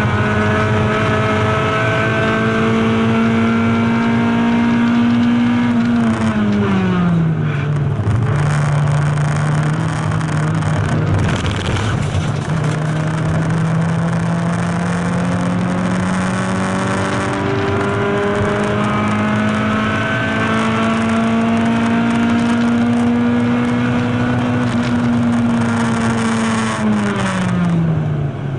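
Race car engine heard from inside the stripped, roll-caged cockpit, running at high revs under load with its pitch climbing slowly through long stretches. The revs fall away about six seconds in and again near the end, with wind and road noise throughout.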